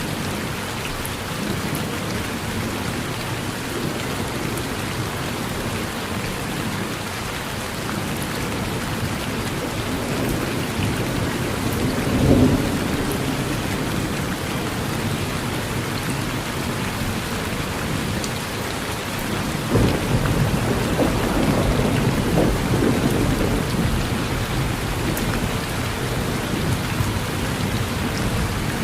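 Steady rain falling on a porch, with thunder: a short loud burst about twelve seconds in and a longer low rumble starting about twenty seconds in.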